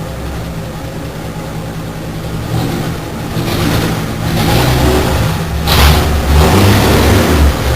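Willys/Ford Rural's 4.1-litre engine running at a steady low idle, then revved in several surges from about a third of the way in, the loudest near the end.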